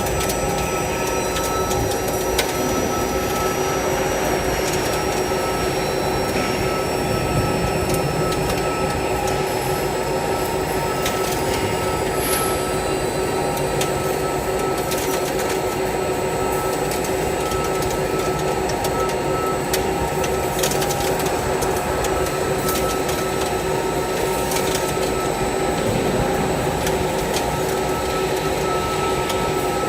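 XGY-U30NC milling head on a milling machine running steadily: a constant mechanical whine with a few held tones, a faint high tone that slowly falls over the first half, and scattered light ticks.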